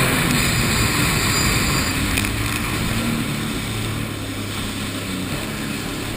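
Motorboat engine running at speed, with rushing water and wind noise on the microphone, slowly getting quieter.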